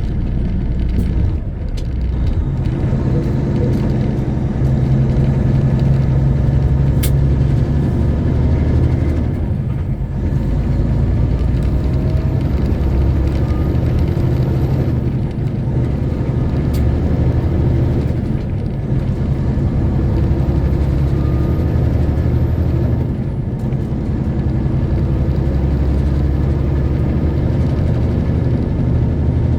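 Semi truck's diesel engine running under way, heard from the cab, with brief drops in engine sound every several seconds as gears are shifted.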